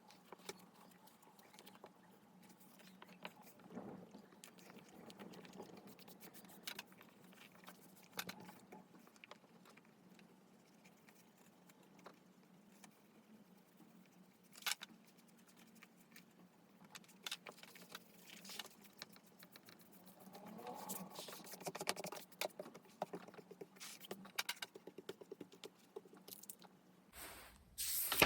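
Pen and paper handling at a desk: scattered light clicks and taps, with a stretch of quick scratching strokes about two-thirds of the way through.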